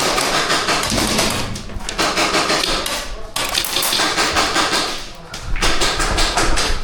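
Airsoft gunfire: a dense clatter of rapid clicks and cracks from guns firing and BBs striking, easing briefly twice and thickest near the end.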